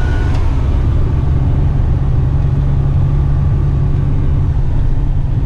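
Heavy rigid truck driving on the road: a steady low drone of engine and road noise.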